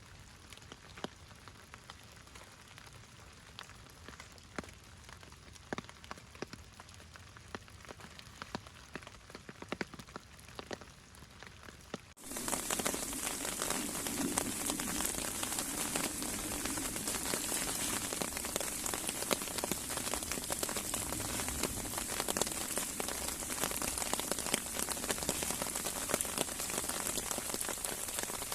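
Rain: at first scattered drops tapping, then about 12 seconds in it switches abruptly to loud, dense, steady rain.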